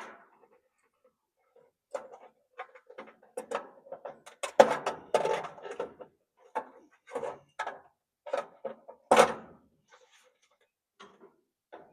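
Irregular clanks, knocks and rattles of an electric clothes dryer's parts and wiring being pulled and handled while it is stripped for scrap, busiest around the middle with one sharp hit near the end.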